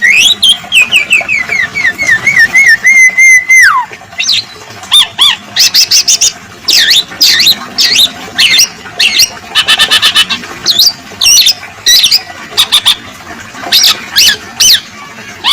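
Recorded songbird calls played as a bird-training (masteran) track. A wavering whistle falls slowly over the first few seconds and drops away, then rapid high chattering and short sweeping calls follow one after another.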